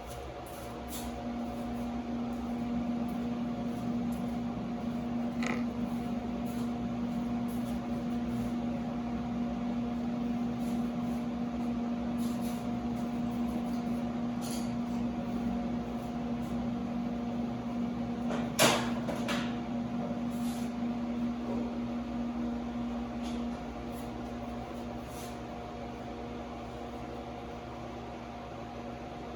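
A steady electrical hum that fades a few seconds before the end, with faint scattered ticks and one sharp click about two-thirds of the way through.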